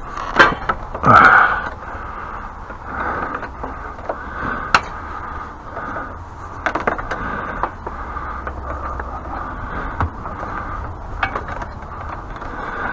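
Scattered knocks, clunks and scrapes of a pressure washer being handled and turned around, over a steady background hum.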